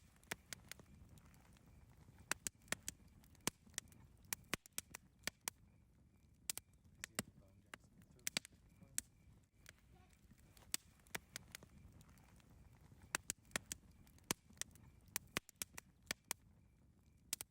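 Wood campfire crackling: sharp, irregular pops and snaps, several a second, over a low, steady rumble of burning.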